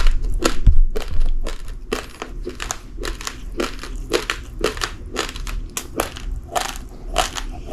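A person chewing raw, uncooked rice grains, with a steady run of crunches at about two a second.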